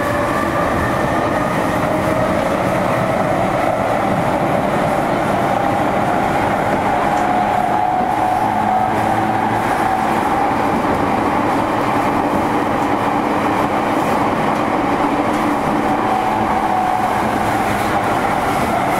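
JR East E231 series electric train running between stations, heard from inside the car: a steady rumble of wheels on rail with the traction motors' whine rising slowly in pitch through the first half as the train gathers speed, then holding level.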